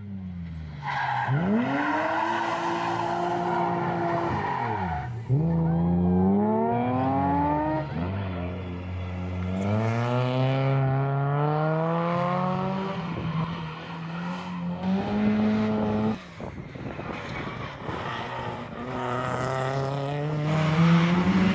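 Historic rally cars accelerating hard on a special stage, their engines revving up and dropping back on each gear change. Sudden jumps about 5 and 16 seconds in bring in a new car each time.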